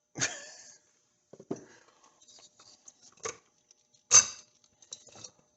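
Sharp metallic clinks and knocks of engine parts and tools being handled while an 80cc motorized-bicycle engine is taken apart: about four distinct strikes with short ringing tails, the loudest about four seconds in, with lighter ticks between.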